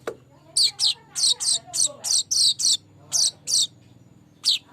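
Streaked weaver (manyar kembang) singing: a quick run of about a dozen sharp, high notes, each sweeping down in pitch, then a short pause and one more note near the end.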